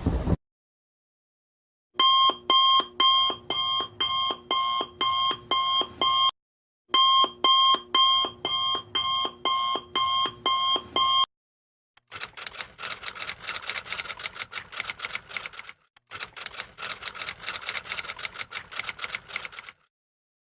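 Alarm clock sound effects. A beeping alarm sounds at about two beeps a second in two runs, then a faster ringing alarm with rapid rattling pulses plays in two runs.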